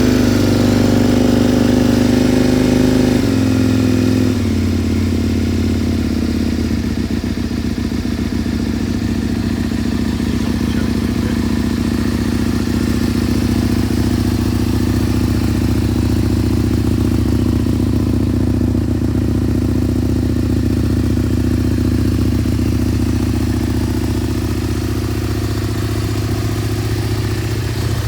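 Aprilia Tuono Racing motorcycle engine just fired from cold with the choke on. It runs at a raised idle, drops to a lower pitch about three seconds in, then idles steadily.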